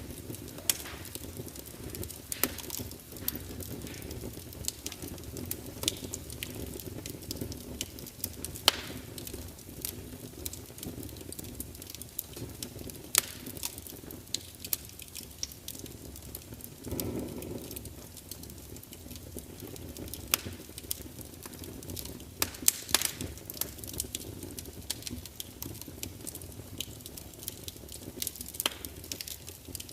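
Wood fire burning in a large open fireplace: a steady low rumble of flames with frequent sharp crackles and pops from the burning logs, and a brief louder whoosh of flame about halfway through.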